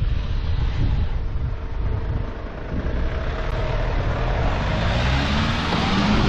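Strong wind buffeting the microphone while a car approaches and passes close by, its engine and tyre noise swelling to a peak near the end.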